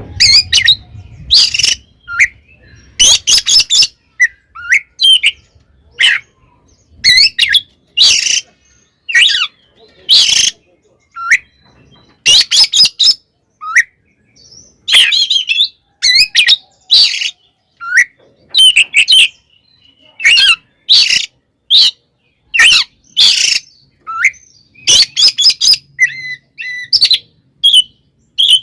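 Oriental magpie-robin (kacer) singing its aggressive fighting song: loud, harsh bursts of calls about once a second, mixed with short whistled glides. This is an agitated, challenging song, the kind played to provoke other magpie-robins.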